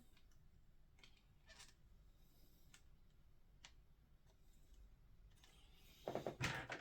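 Faint, scattered clicks of small model-airliner parts being handled and fitted, with a louder cluster of clicking and rustling near the end.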